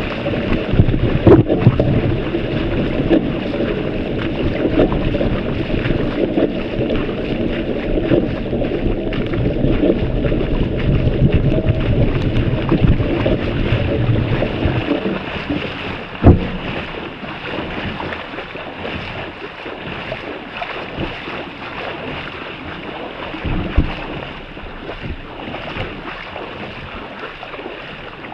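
Legs wading through knee-deep floodwater, sloshing and splashing, with wind on the microphone. The splashing is loudest in the first half, then eases after a sharp knock about halfway through.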